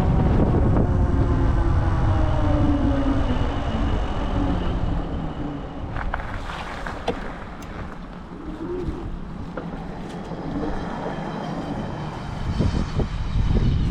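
Wind rumbling on the microphone of a moving e-bike, with a pitched whine that falls and fades over the first few seconds. It quietens in the middle with a few clicks, and the rumble builds again near the end.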